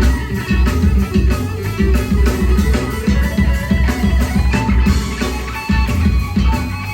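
A live rock band playing an instrumental stretch: electric guitars over bass and a steady drum beat.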